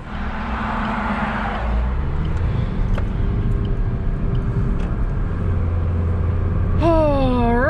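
Car engine and road noise heard from inside the cabin as the car pulls out onto a busy road, a steady low rumble, with a rushing whoosh in the first couple of seconds.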